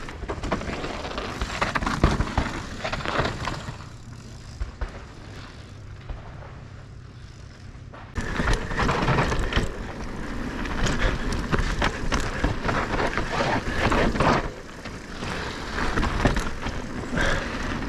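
Electric mountain bike being ridden down a dusty dirt trail: tyre roar and clattering rattles as the bike goes over bumps, with wind on the microphone. The ride goes quieter for a few seconds in the middle, then rougher and louder from about halfway.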